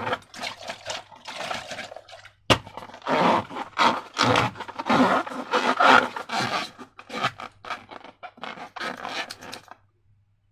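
Slime being worked and scraped, a quick irregular run of scraping strokes with one sharp click about two and a half seconds in; it stops shortly before the end.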